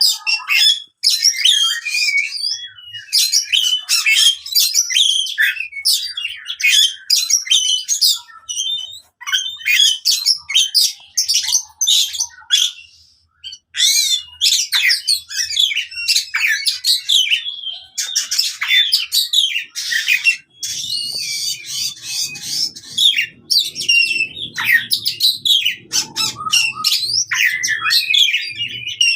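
Oriental magpie-robin singing in its aggressive fighting style: a loud, fast, unbroken stream of varied whistles, chirps and harsh notes, pausing briefly about halfway through. A faint low hum sits beneath the song in the last third.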